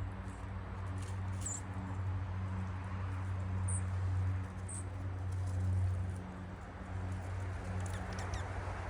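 Wild birds giving three short, high chirps, over a steady low hum that swells and fades, with a few faint ticks near the end.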